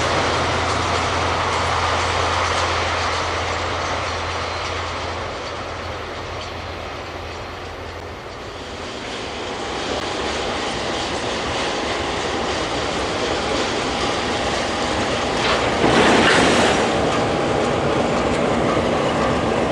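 A train moving through a rail yard: continuous rolling noise with wheel clatter on the rails. A low steady hum stops about eight seconds in, and a louder burst of noise comes about sixteen seconds in.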